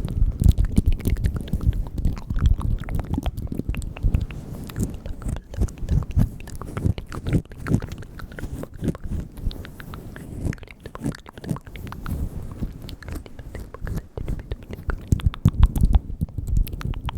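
Close-miked ASMR mouth sounds: a rapid, continuous run of wet mouth clicks and smacks.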